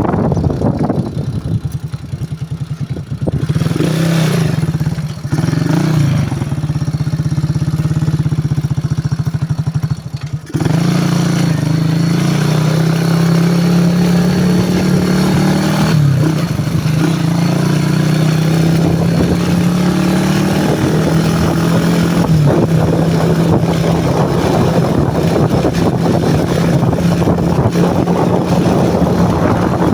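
Honda CG150-type motorcycle's single-cylinder engine running under way. The engine note wavers and dips over the first ten seconds, drops out briefly about ten seconds in as the throttle closes, then runs steady and louder.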